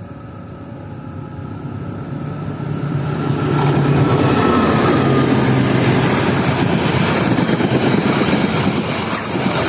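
A diesel locomotive drawing closer, its engine drone and rumble swelling over the first four seconds, then running loud and steady as the train passes close by.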